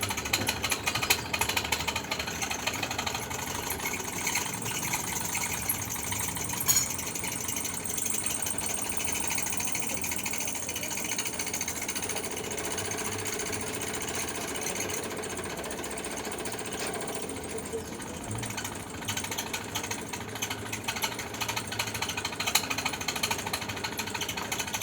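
Electric arc welding crackling and sizzling steadily as foundation bolts are welded, with one sharper pop about seven seconds in.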